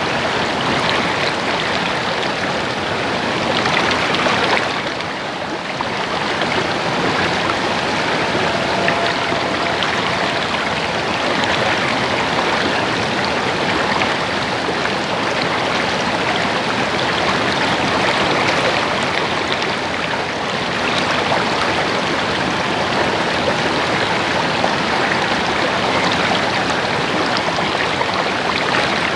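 Small stream or creek babbling and splashing over rocks, a steady rush of water that dips briefly about five seconds in.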